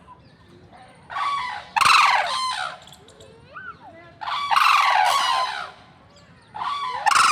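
A large bird calling loudly three times, each call harsh and squealing and lasting a second or more, with faint chirps of other birds between the calls.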